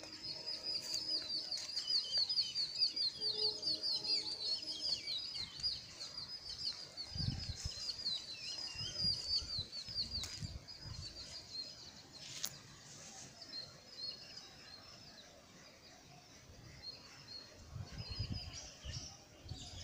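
Small birds chirping rapidly and continuously in high, quick downward notes, busiest in the first seven seconds and then thinning out. A few low rumbles on the microphone come about seven and ten seconds in and near the end.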